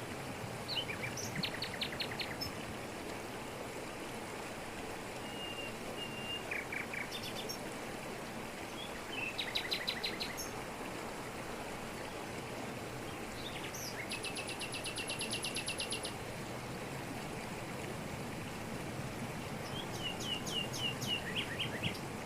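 Waterfall pouring steadily over rocks, with a bird in the forest calling in short runs of quick, high, repeated notes five times, the longest a rapid trill of about two seconds a little past the middle.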